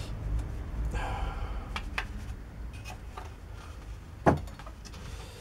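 Small metal workshop parts being handled on a bench: a few light clicks and one louder knock about four seconds in, over a low hum.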